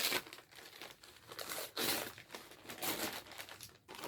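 Wrapping paper crinkling and tearing in irregular rustles as a wrapped gift is opened by hand.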